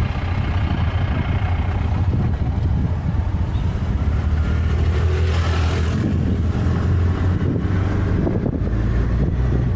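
Auto-rickshaw (tuk-tuk) engine running steadily while riding, a constant low hum with wind noise on the microphone.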